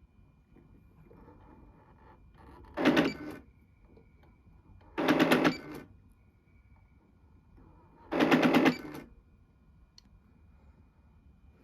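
Janome Secio computerized embroidery sewing machine giving a rapid rattling, grinding 'gagaga' three times, each burst under a second. It is the abnormal noise that comes when the needle rises, which the owner traces to the gear driving the embroidery carriage as it tries to push the carriage further than it can go.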